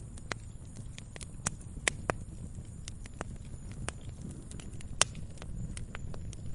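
Campfire crackling: irregular sharp pops and snaps of burning wood, two or three a second, over a low steady rumble of the fire. The loudest pop comes about five seconds in.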